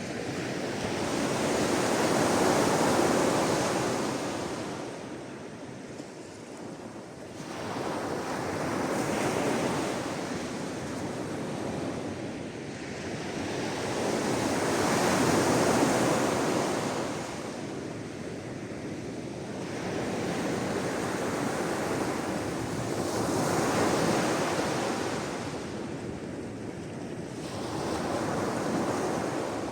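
Sea waves breaking and washing on the shore in slow surges, one every six to eight seconds, each swelling and then fading.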